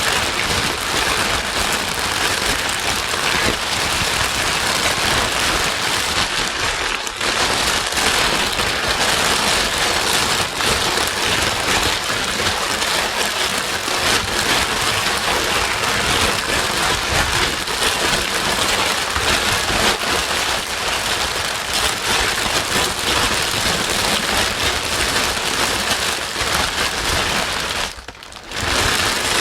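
Steady, dense white noise with a rain-like patter, used to soothe a crying baby. It dips briefly about a second before the end, as at a loop point.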